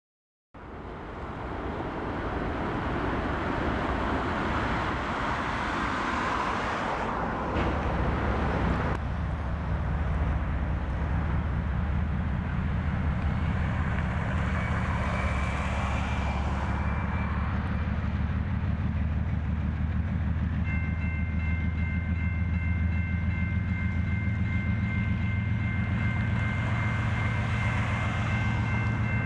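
Freight train: a broad rushing rolling noise for the first several seconds, then a steady low rumble. A thin steady high-pitched tone joins about twenty seconds in.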